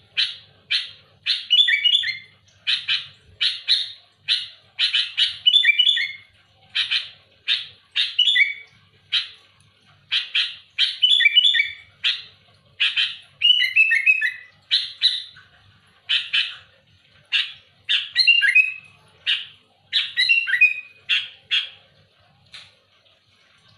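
Sooty-headed bulbul (kutilang) singing loudly in short, sharp phrases about once a second, some ending in quick falling notes. The song stops near the end.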